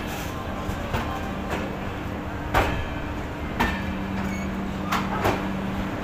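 Passenger train coach rolling along the track, its wheels giving sharp, irregular knocks over rail joints and points, over a steady running noise with a low hum.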